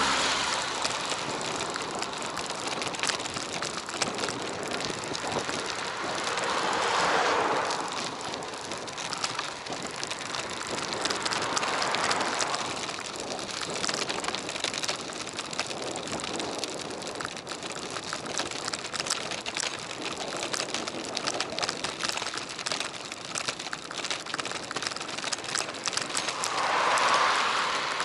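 Wind and tyre noise picked up by an action camera on a moving bicycle: a steady hiss scattered with small clicks, swelling louder briefly about a quarter of the way in, again near the middle, and once more near the end.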